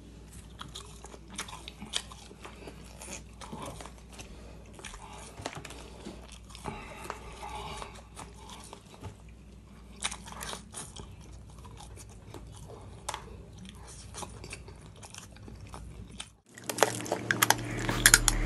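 Close-miked chewing and biting of fried chicken nuggets: crisp crunches and wet mouth sounds, over a faint steady low hum. About 16 seconds in, this gives way abruptly to much louder intro music.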